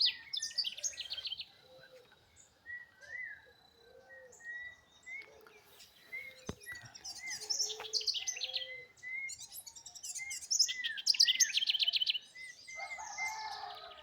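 Several birds singing. There are quick bursts of rapid, high chirping trills three times: at the start, about seven seconds in and about ten seconds in. Under them run repeated short, arching whistled notes at two different pitches.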